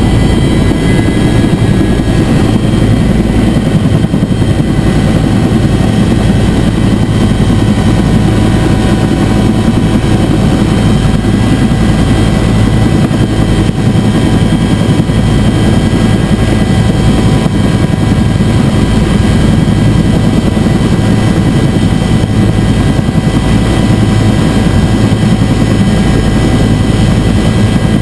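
Bell UH-1 Huey helicopter running steadily and loudly, its rotor and turbine making a constant deep drone with faint steady whining tones over it.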